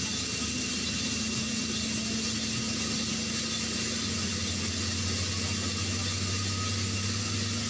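UH-60 Black Hawk helicopter's twin turboshaft engines running steadily on the ground ahead of takeoff: an even rushing noise with a steady hum, a lower hum growing stronger about four seconds in.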